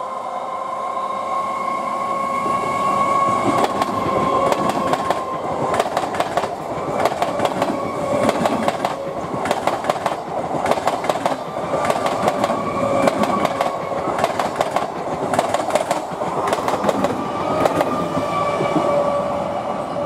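Electric multiple unit (EMU) suburban train passing close by at speed. Its wheels clatter over the rail joints in rapid clicks, starting about four seconds in and going on until near the end, over a steady tone that is heard throughout.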